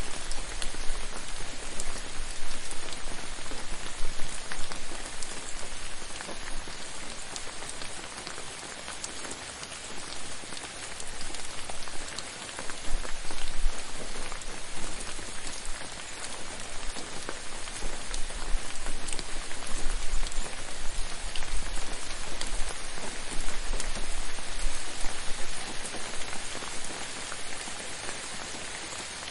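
Steady rain falling on a hard surface, a dense patter of many individual drops with small swells and dips in loudness.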